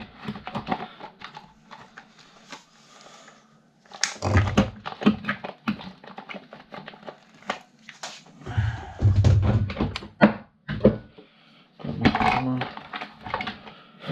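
Irregular clicks, knocks and clatter of hand-dismantling a plastic desk fan housing on a workbench, with heavier thumps about four seconds in and again around nine seconds in.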